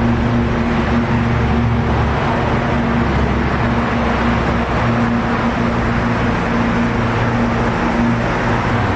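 Vehicle engine running steadily: a constant low hum under a dense rush of noise.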